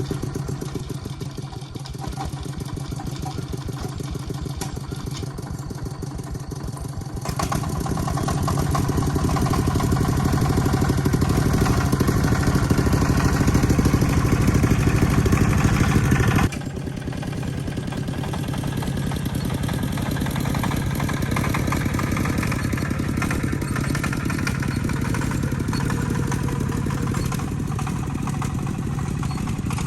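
An engine running steadily with a fast, even pulse, growing louder about seven seconds in; the sound changes abruptly about sixteen seconds in, as at a cut, and runs on steadily.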